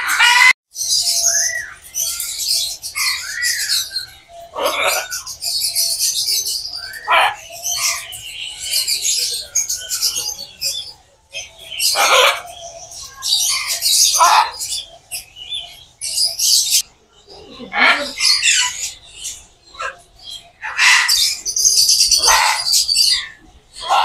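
Several birds chirping and calling, with many short calls overlapping throughout.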